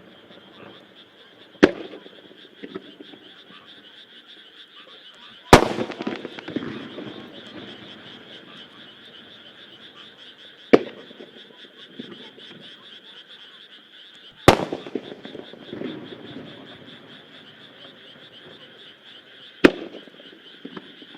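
Single aerial firework shells bursting one at a time: five sharp booms a few seconds apart, each with a rolling echo. Underneath is a steady chorus of frogs croaking.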